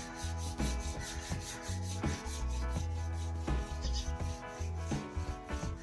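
Wooden snooker cue shaft being hand-sanded with fine 0-grade sandpaper fixed inside a cut pipe, rubbing strokes back and forth, with background music.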